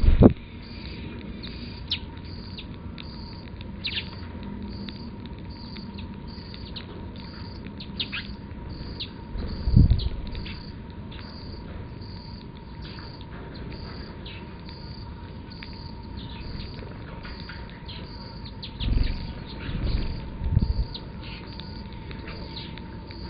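Sparrows chirping: short, sharp calls scattered throughout, over a regular high pulsing note and a faint steady hum. A few low thumps interrupt it, the loudest right at the start and about ten seconds in, with a cluster near the end.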